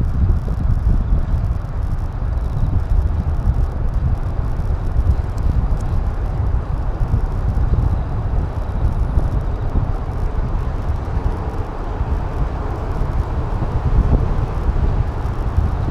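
Wind buffeting an action camera's microphone while riding: a steady, dense low noise with no engine tone in it.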